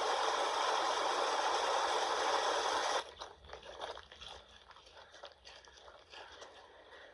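Heavy rain with a loud, steady rushing hiss that starts and cuts off suddenly after about three seconds, followed by quieter scattered crackling ticks of raindrops.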